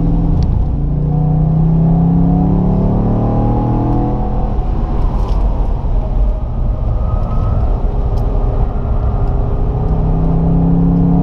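Holden Commodore Motorsport Edition's 6.2-litre V8 accelerating hard on track, the revs climbing for about four seconds. The engine note then eases off for several seconds and picks up again near the end.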